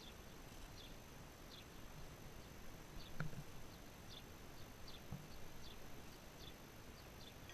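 Faint, short, high chirps of small birds, falling in pitch and coming irregularly about once or twice a second, over a steady hiss. A soft low thump about three seconds in, and a weaker one about five seconds in.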